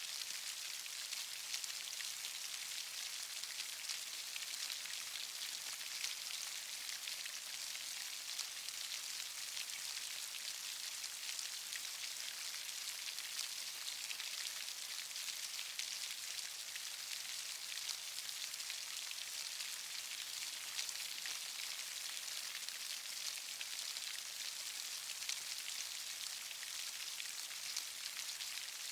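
Steady rain falling, a dense patter of drops with an even hiss and many small ticks.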